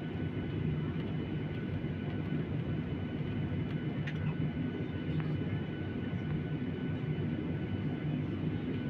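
Airliner cabin noise during the climb after takeoff: a steady low rumble of the engines and airflow, with faint steady high whine tones above it.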